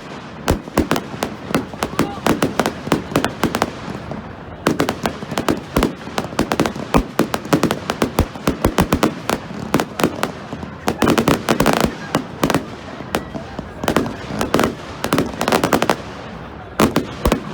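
Fireworks going off in dense, rapid volleys of sharp bangs and crackling pops, many a second. There are short lulls about four seconds in and again near the end.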